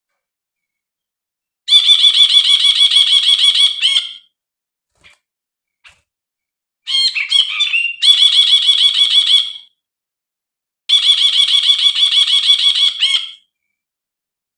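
Brinji (bulbul) calling in three bouts, each a rapid string of repeated chattering notes lasting about two to three seconds, separated by silence. The second bout opens with a different, jumbled phrase.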